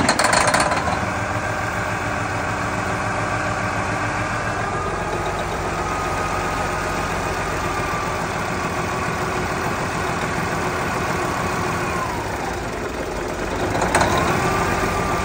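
Heavy truck engine running steadily just after starting, with a whine over it. About twelve seconds in the whine drops away, then returns with a brief loud burst.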